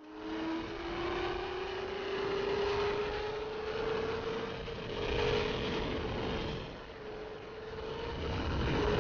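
Motorcycle engine accelerating, its pitch climbing over the first couple of seconds and then holding steady at speed, with heavy wind rush over the microphone.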